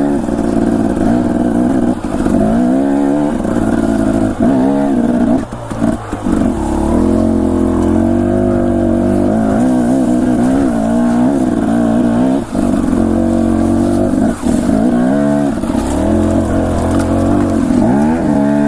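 Dirt bike engine running under constantly changing throttle, its pitch rising and falling every second or two, with a few brief throttle cuts.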